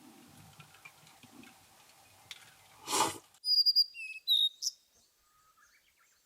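A bird calling: a quick run of high, clear whistled notes with short pitch glides, starting about halfway through and fading into a few fainter, lower notes. Just before the calls, a brief loud rustling noise.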